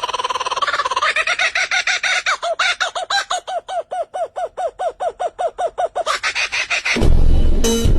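A bird calling: one long held note, then a fast, even run of short repeated calls, about five a second, for several seconds. Near the end it gives way to a louder, noisier sound.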